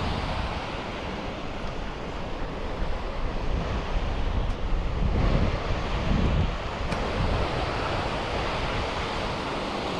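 Waterfall rushing steadily, with wind buffeting the microphone in low gusts around the middle.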